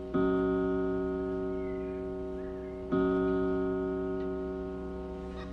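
Grandfather clock striking the hour: two deep ringing strokes about three seconds apart, each starting sharply and slowly dying away.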